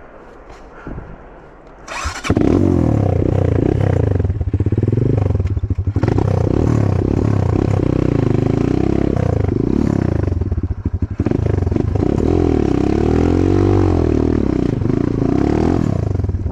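Enduro motorcycle engine comes in loud about two seconds in, then is revved up and down again and again.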